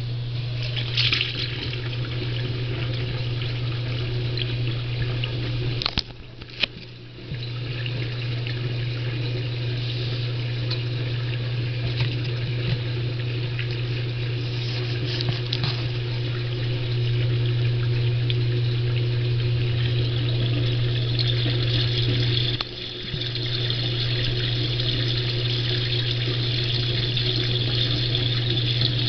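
Water flowing steadily through a heel-inlet sewer elbow, a continuous rush over a low steady hum. It drops away for about a second around six seconds in and dips again briefly later on.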